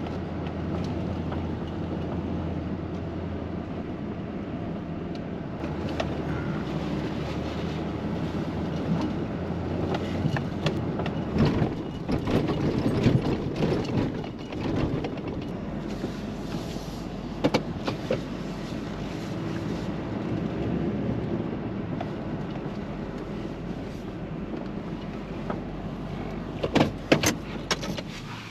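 A motor vehicle running with a steady low engine hum, its pitch shifting about eleven seconds in, with scattered clicks and knocks that grow more frequent near the end.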